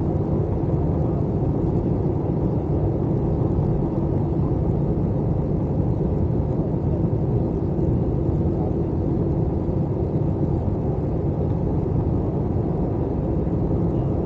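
Steady cabin drone inside an Airbus A321 airliner: jet engine and airflow noise as a low, even rumble with a faint steady hum, unchanging throughout.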